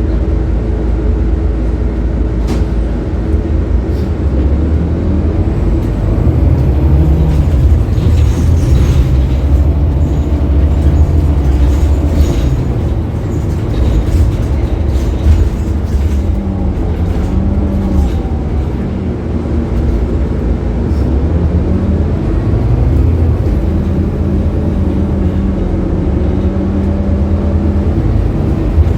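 Scania K280UB bus's 9.3-litre five-cylinder diesel engine running under way. Its note rises and falls several times as the bus pulls away, changes gear and slows, with light rattles and ticks over it.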